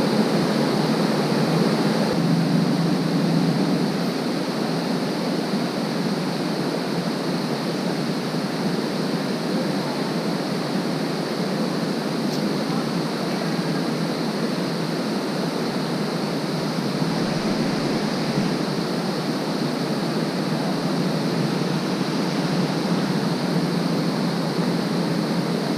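Steady rushing of a shallow creek's flowing water, an even noise without breaks.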